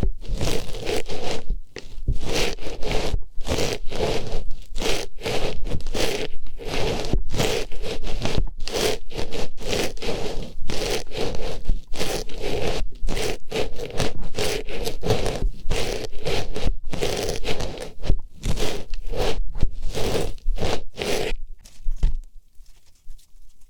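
Artificial flower rubbed and pushed into the ear of an ear-shaped ASMR microphone: scratchy scraping and rustling in quick repeated strokes, about two a second, which trails off near the end.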